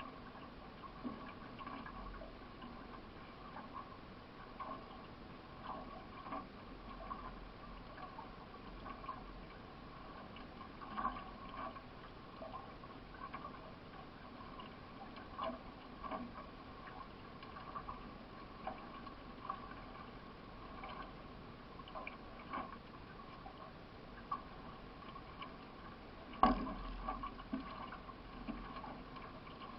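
Paddling a solo racing canoe: water splashing and sloshing around the hull, with light irregular knocks about once a second and one much louder knock a few seconds before the end.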